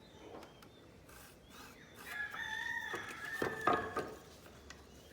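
A rooster crowing once, a long call of about two seconds starting about two seconds in, with a couple of sharp knocks near its end.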